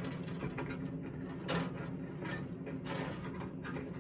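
Rubbing and scraping handling noises with a sharp knock about a second and a half in, over a steady low hum.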